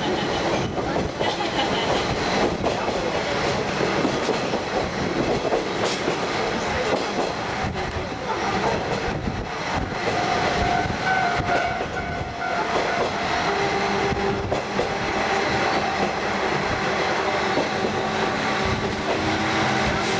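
Kazekko trolley diesel railcar running along the line, heard from aboard: wheels clicking over the rail joints under a steady running rumble, with steady humming tones joining in about halfway through.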